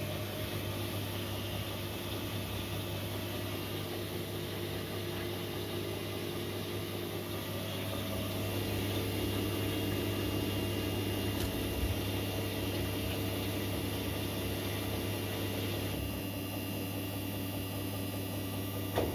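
Korting KWM 47B1060 washing machine running in the early, low-speed part of its spin cycle: a steady hum of motor and drum, swelling a little midway, with no rattle.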